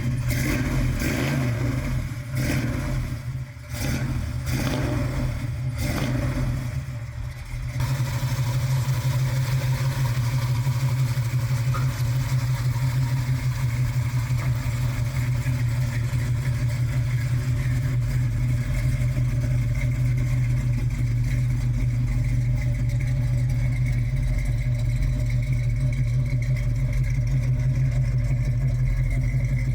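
1967 Chevrolet El Camino's engine running: a few uneven revs in the first several seconds, then a steady idle.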